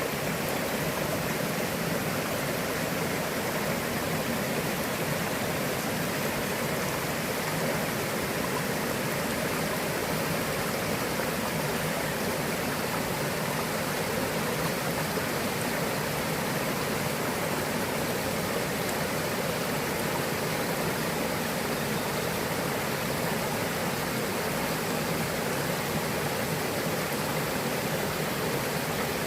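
Mountain stream's flowing water, a steady rush with no breaks.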